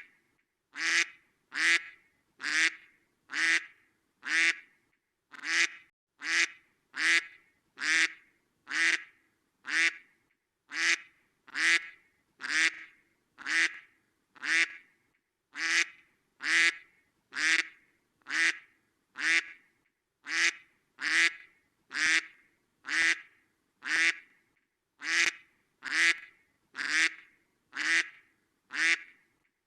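Duck quacking over and over, short identical quacks at a very even pace of about three every two seconds, like a repeated recording.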